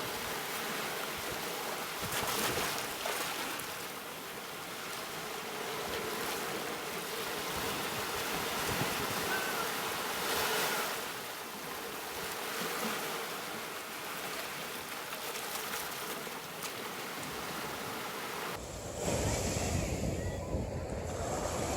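Ocean surf: waves washing in and easing back in slow swells of hiss. Near the end the sound changes abruptly to a deeper, rumbling surf with wind on the microphone.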